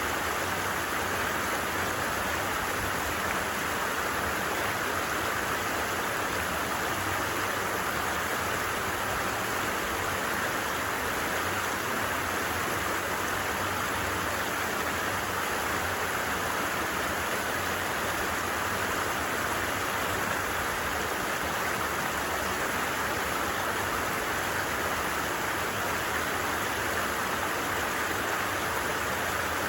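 A stream's water running steadily, an even, unbroken rush.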